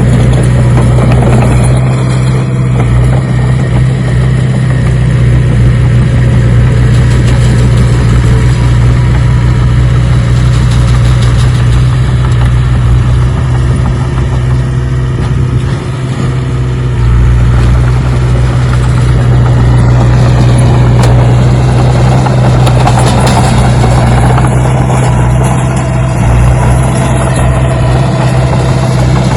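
An engine running steadily with a strong low hum, at an even idle-like speed.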